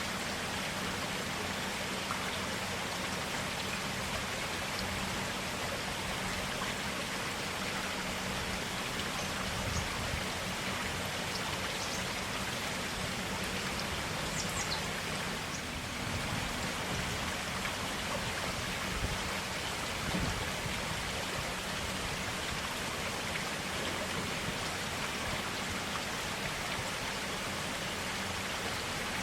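Forest stream flowing: a steady, even rush and splash of clear water.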